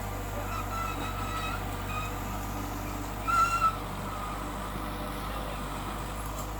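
A heavy machine's engine running steadily at a low hum, with a few short high-pitched sounds over it, the loudest about three and a half seconds in.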